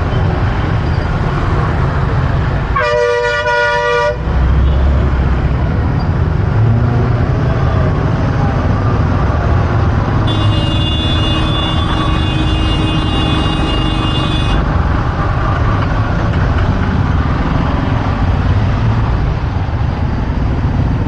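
Road traffic heard while riding a motorbike in dense city traffic: a steady low rumble of engines, with one vehicle horn sounding briefly about three seconds in and another, higher horn held for about four seconds in the middle.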